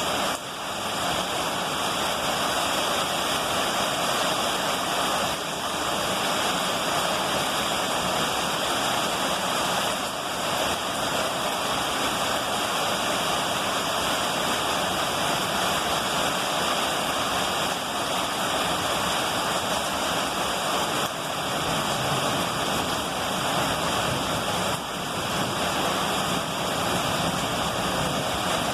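Heavy rain falling steadily, an even hiss of water with no distinct thunderclaps.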